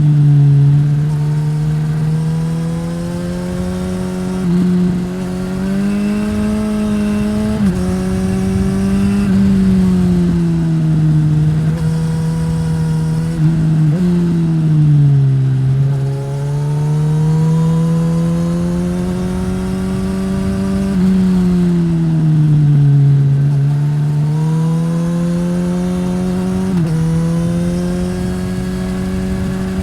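2015 Suzuki GSX-S1000's inline-four engine through a Yoshimura R-11 slip-on exhaust, running loud under riding load. Its pitch rises and falls over several seconds as the throttle opens and closes. About five times it jumps suddenly up or down, as gears change.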